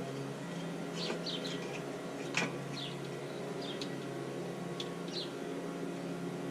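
Small birds chirping: several short, quick falling chirps over a steady background hum, with one sharp click about two and a half seconds in.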